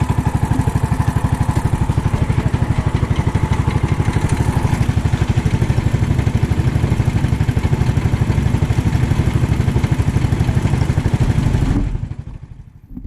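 390cc single-cylinder four-stroke kart engine idling with an even, steady pulse. It is switched off about twelve seconds in and runs down to a stop within about a second.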